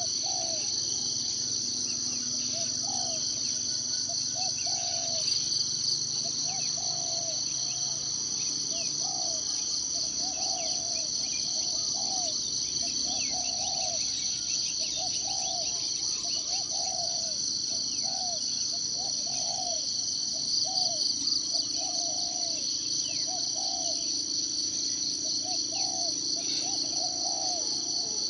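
Steady, pulsing high-pitched forest insect chorus, with short, low calls repeating about once a second and scattered faint bird chirps.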